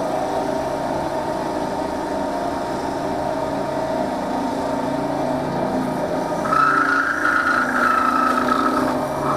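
Wood lathe motor running steadily with a turned cup spinning under an oiling cloth, and a higher whine joining about two-thirds of the way in for a couple of seconds.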